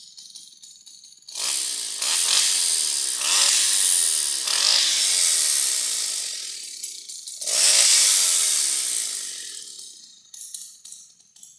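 Vintage Echo CS-100 two-stroke chainsaw, ticking over faintly at idle, then revved five times in quick throttle blips, each falling back in pitch as the engine slows. The last rev fades away near the end.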